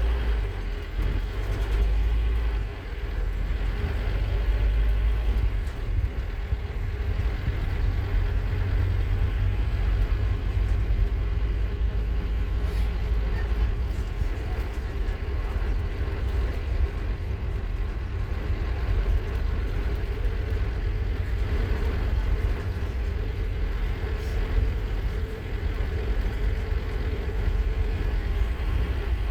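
Scania K230UB Omnilink bus's diesel engine running steadily under way, heard from on board along with road noise.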